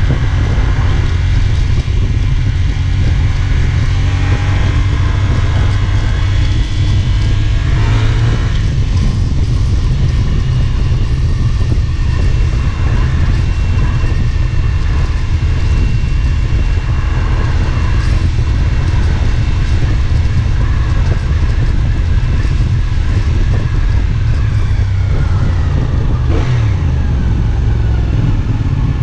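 CFMoto 450SR S motorcycle's parallel-twin engine running on the move, its note rising and falling with the throttle a few times, notably around 8 s and 26 s, over a heavy, steady rumble of wind on the microphone.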